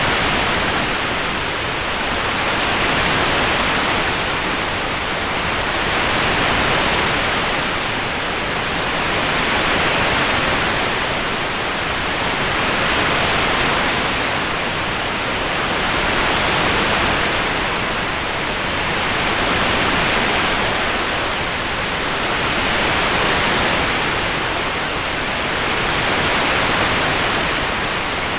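Relaxing rain-sound track: a dense, even rain hiss that swells and eases gently about every three seconds.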